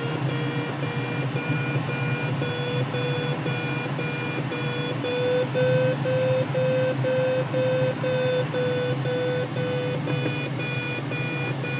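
Glider audio variometer beeping steadily, about two to three beeps a second, its pitch rising a little through the middle: the sign that the glider is climbing in wave lift. Under it runs steady cockpit air noise.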